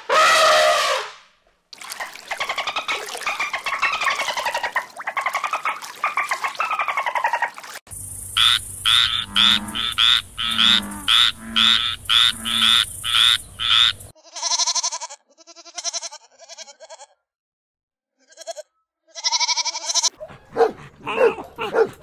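Several animals calling in turn. First come long drawn-out calls from an elephant. Then a frog croaks over and over, about twice a second, followed by shorter pulsed calls, and a small dog whimpers and yips near the end.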